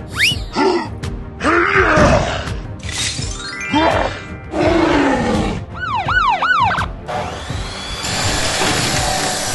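A rapid string of cartoon sound effects laid over music: a quick rising whistle at the start, noisy whooshes and crashes, a fast rising sweep, then three quick up-and-down warbling chirps, ending in a steadier rushing noise.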